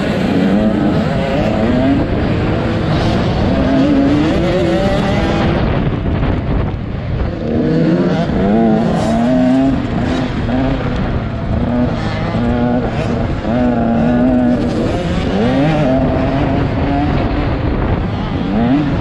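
Motocross bike engine revving hard, its pitch repeatedly climbing and dropping back as it accelerates and shifts gears, over a rough rush of noise. The throttle eases off briefly about six to seven seconds in.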